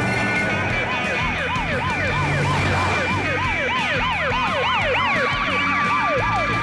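A fast warbling siren, its pitch rising and falling about three to four times a second, with several overlapping at different pitches over background music.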